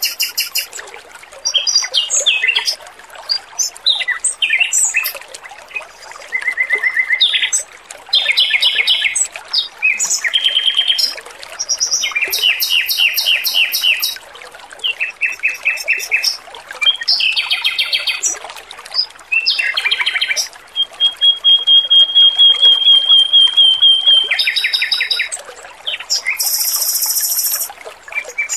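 Male Pekin robin (red-billed leiothrix) singing in short, loud phrases of fast repeated notes, with one long even trill a little past the middle, over faintly trickling water.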